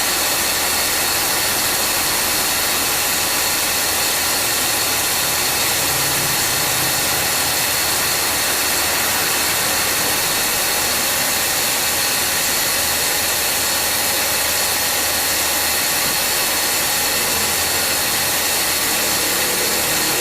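2013 Subaru Forester's A/C compressor running continuously without cycling off, a loud steady noise with faint high whines over the running engine. The noise is the sign of a heavily worn compressor, in a system that cools very poorly.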